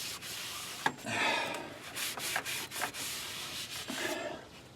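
Irregular rubbing and scraping noises from hand work, with a sharp click about a second in.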